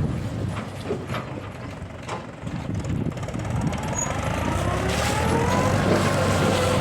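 JCB 3DX backhoe loader's diesel engine running, with a few light knocks in the first two seconds; about halfway through it revs up under load and a rising whine climbs in pitch and gets louder.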